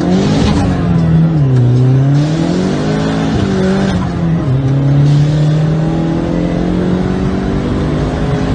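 Turbocharged 2.2 Ecotec four-cylinder engine of a 2002 Chevrolet Cavalier, heard from inside the cabin while the car is driven hard. Its pitch climbs and drops back at gear changes over the first few seconds, then holds steady.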